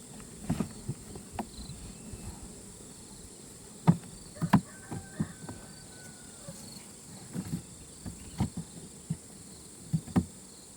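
Steady high chirring of insects such as crickets, with scattered sharp knocks and snaps, the loudest a pair about four seconds in and another pair near the end.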